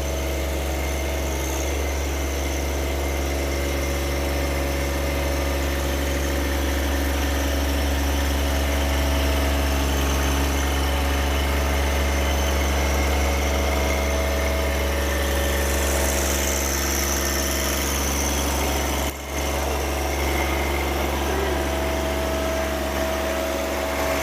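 An engine running steadily at an even idle, with a brief dip in level about three-quarters of the way through.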